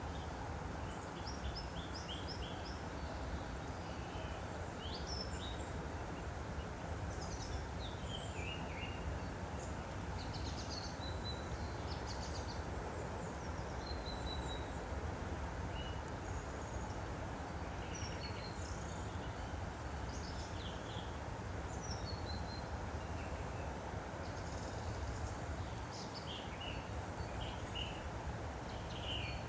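Woodland stream flowing with a steady rush, while small birds chirp and trill in short repeated phrases throughout.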